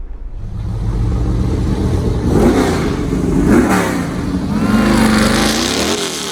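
A car engine idling and revved three times, its pitch rising and falling with each rev, the last rev the longest.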